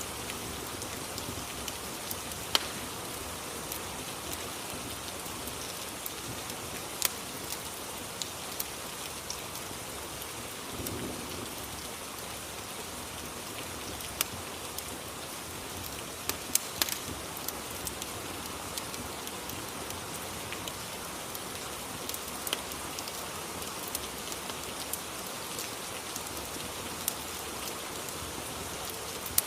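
Rain-and-fireplace ambience: steady rain with scattered sharp crackles.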